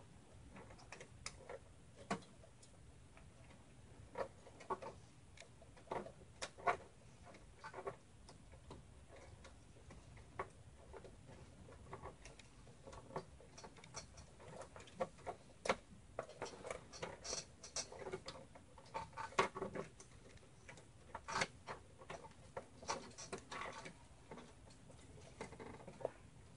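Faint, irregular clicks, taps and scrapes of cables and plastic connectors being handled and pushed into place inside a cramped mini-ITX PC case.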